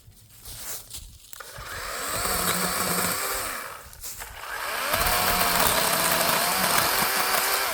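DeWalt 20V Max cordless 12-inch chainsaw running in two bursts of about two and three seconds, cutting through wood, the whine of its electric motor bending in pitch under load; it stops near the end.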